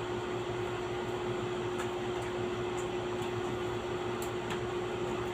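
Steady room hum from an electric fan or air-conditioning motor, with one constant tone running under it. A few faint, short clicks sound about two, three and four seconds in.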